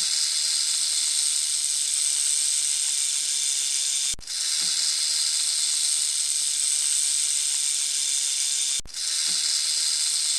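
A snake hissing: three long, steady hisses, each breaking off briefly before the next, the first break about four seconds in and the second near nine seconds.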